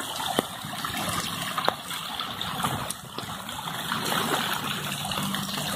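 Steady rain falling on a wet cobblestone street, an even hiss of water, with a few sharp ticks from drops.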